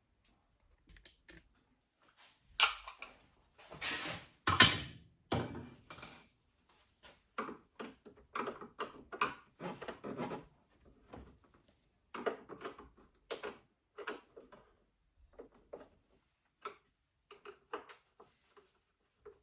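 Irregular knocks, clicks and rubbing from parts and tools being handled during disassembly of a coffee machine, loudest about three to five seconds in.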